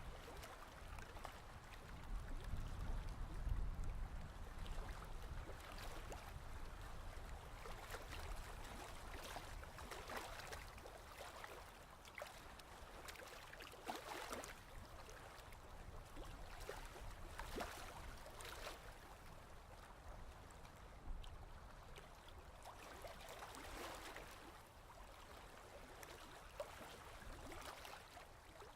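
Ocean waves washing and lapping, faint, with swells of louder wash every few seconds.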